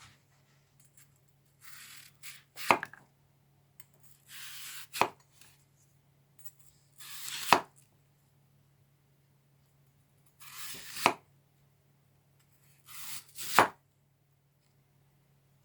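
A kitchen knife slicing through an apple five times, each crisp cut ending in a sharp knock of the blade on the cutting board.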